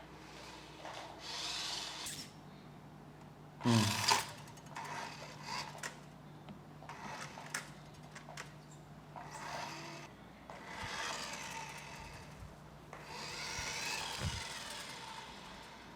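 Small electric motor of a battery-powered remote-control toy car whirring in short runs of a second or two, starting and stopping as the remote is pressed. About four seconds in there is a louder, brief sound whose pitch falls steeply.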